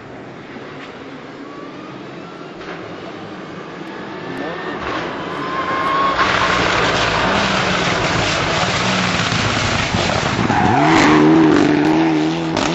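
Rally car coming through a hairpin: its engine and tyre noise build over several seconds, with the tyres skidding as it drifts round. About eleven seconds in the engine revs up in a rising note as it accelerates out of the bend, then fades.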